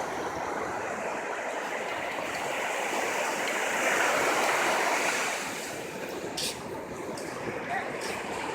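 Surf washing onto a beach, with one wave swelling louder for a couple of seconds midway.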